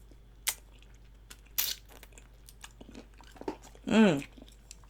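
Close-miked eating sounds: scattered sharp mouth clicks and a short, louder crunching burst about one and a half seconds in. A brief hummed voice sound comes about four seconds in.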